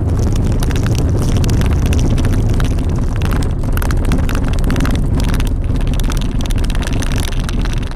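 Loud, steady low rumble of a car on the move, heard from inside it, with dense crackling and rattling throughout.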